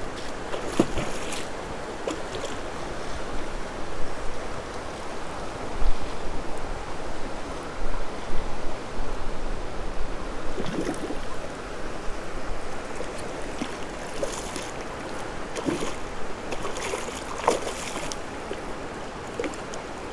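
Creek water rushing steadily, with scattered short clicks and knocks now and then.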